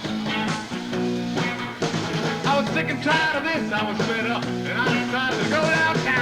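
A live rock and roll bar band playing a song on electric guitars, bass and drums.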